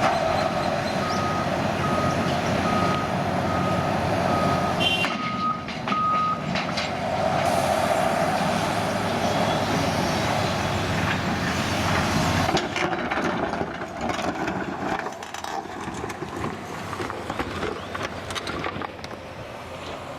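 A construction vehicle's reversing alarm beeping about twice a second over its running engine. The beeping stops about six seconds in, and the engine noise falls away after about twelve seconds.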